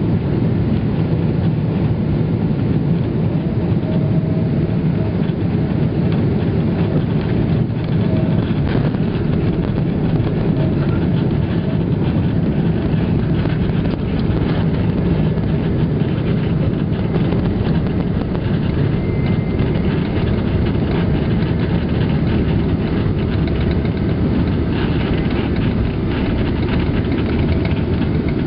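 Steady low rumble inside the cabin of a Boeing 777-300ER rolling on the ground after landing: engine noise and the wheels running over the pavement. The level holds even throughout, with no sudden thump or surge.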